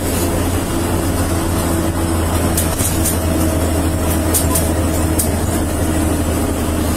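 Steady low rumble of a running vehicle heard from inside, with a faint steady hum and a few faint clicks.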